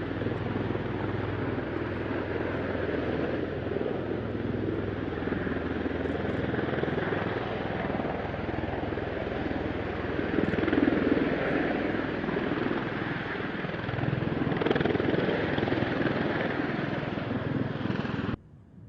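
V-22 Osprey tiltrotor's engines and prop-rotors running: a steady loud drone with a low throb, which cuts off abruptly near the end.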